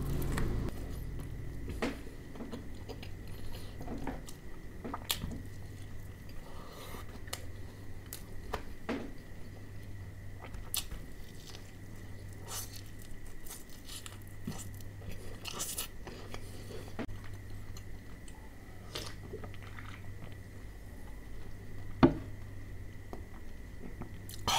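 Close-miked chewing and biting of crispy fried chicken, with irregular crunches of the fried coating. One sharp, louder click about 22 seconds in.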